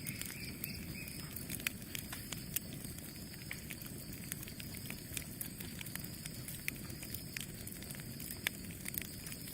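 Campfire burning: a steady low rush of flames with scattered sharp crackles and pops from the burning wood, several a second, and a faint high whistle rising briefly in the first second.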